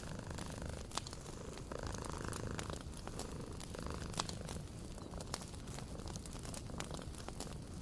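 Wood fire crackling with scattered sharp pops, over a cat's low, steady purr.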